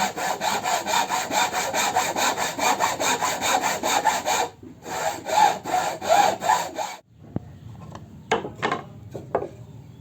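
Hand saw cutting through wood in quick back-and-forth strokes, about five a second. The strokes pause briefly about halfway, carry on for a couple more seconds, then stop, and a few separate knocks of wood follow near the end.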